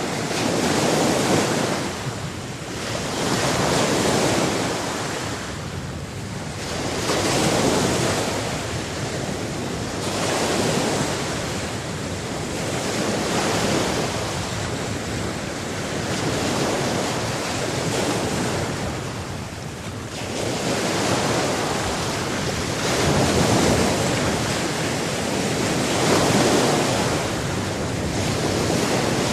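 Sea waves breaking and washing in, a continuous rush of surf that swells and fades every few seconds.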